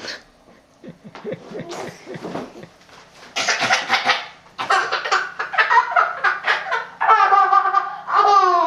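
Laughter that breaks out loudly about three seconds in, turning into a young child's high, gliding squeals near the end.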